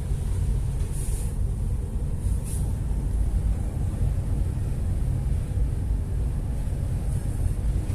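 Steady low rumble of a ship under way, with a faint engine hum, and two short hisses about a second and two and a half seconds in.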